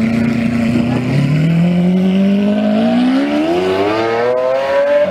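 Sports car engine held at steady revs for about a second, then dropping in pitch and accelerating hard, its note climbing smoothly and steadily for about four seconds.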